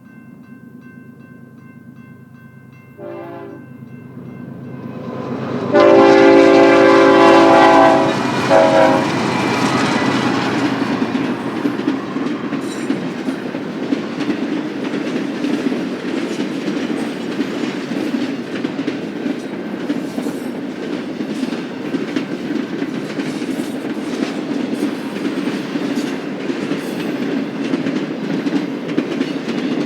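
BNSF diesel freight locomotive sounding its multi-note air horn: a short toot about three seconds in, then a long loud blast with a brief toot after it. The train then passes, its locomotive engines droning and its wheels clicking over the rail joints.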